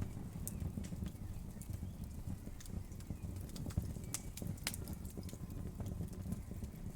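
Wood fire burning in a fireplace: a steady low rumble of the flames with irregular sharp crackles and pops from the burning wood, several a second.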